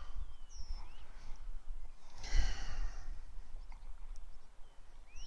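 A person exhaling once, about two seconds in, over a low steady rumble, with a few faint high chirps.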